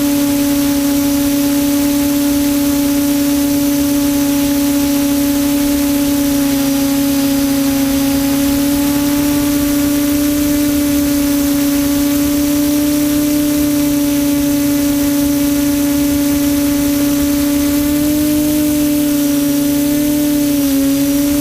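Quadcopter's electric motors and propellers humming at a steady pitch over a hiss of rushing air, the pitch wavering slightly near the end as the throttle changes.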